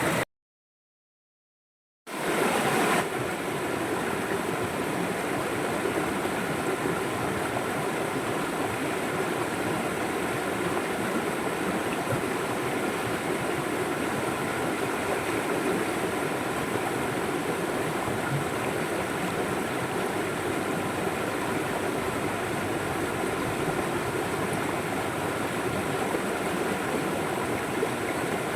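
A river flowing steadily, an even rushing and babbling of water. Just after the start the sound drops out to dead silence for about two seconds, then comes back, briefly brighter before settling.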